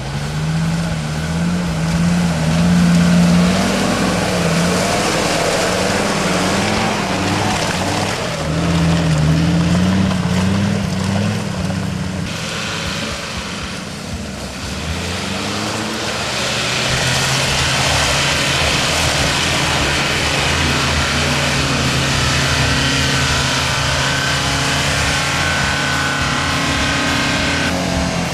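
Off-road 4x4 engines running and revving under load, their pitch rising and falling, with a few abrupt changes in the sound.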